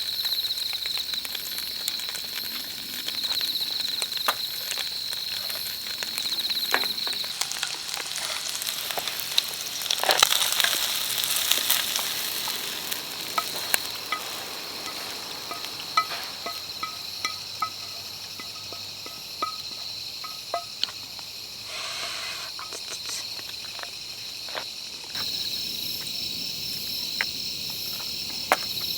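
Night insects trilling steadily in one high-pitched band. A hissing sizzle swells up about eight seconds in and fades after a few seconds, with scattered crackles and clicks throughout.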